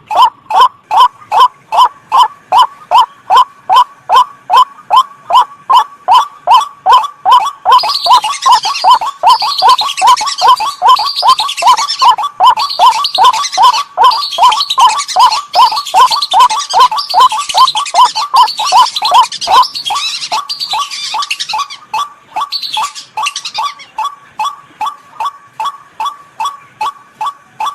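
Bird-lure calls: a white-breasted waterhen's monotonous call, repeated at about two and a half notes a second throughout. From about eight seconds in until a few seconds before the end, a dense high chattering of whistling duck whistles plays over it.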